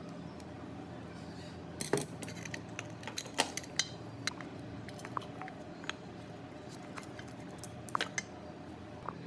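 Small metal parts clinking and tapping as they are handled, a scatter of sharp clicks from about two seconds in until near the end, over a steady low hum.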